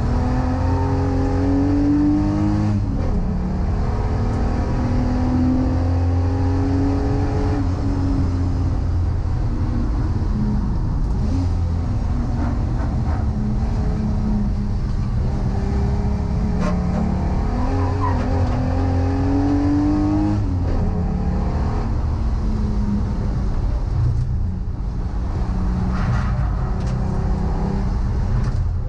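Volkswagen Corrado's VR6 six-cylinder engine under hard acceleration on track: its note rises in pitch and drops back at each upshift, twice in quick succession at the start and again about two-thirds of the way through, with steadier running in between.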